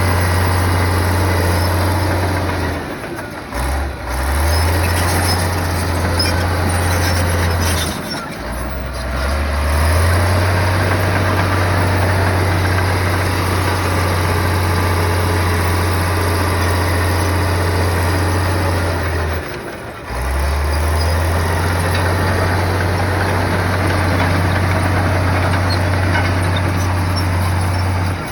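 A heavy bulldozer's diesel engine running steadily under work. Three times, about three, eight and twenty seconds in, its note drops away briefly and then climbs back up.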